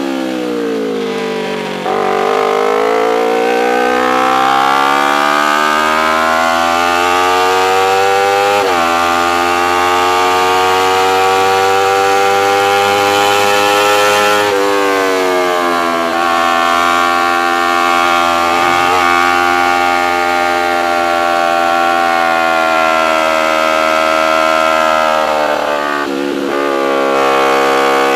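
Racing motorcycle engine at high revs under race load. Its pitch falls sharply at the start as the rider backs off and downshifts, then climbs. It drops suddenly twice, about 9 and 14.5 seconds in, as the rider shifts up, sags slowly through a long stretch, and dips and climbs again near the end.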